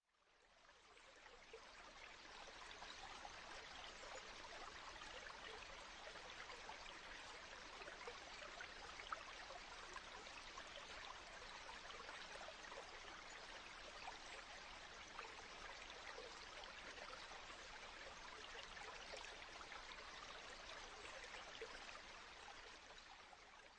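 Faint, steady rush of a flood-swollen mountain creek running high, fading in at the start and fading out near the end.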